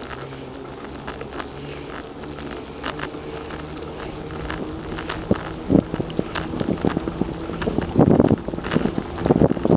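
Bicycle on the move: tyres rolling with scattered clicks and rattles. Wind buffets the microphone, getting louder and gustier from about halfway through.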